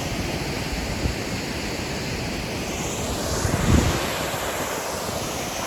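Steady rush of falling water from a waterfall, with wind buffeting the microphone, swelling into a stronger gust about three and a half seconds in.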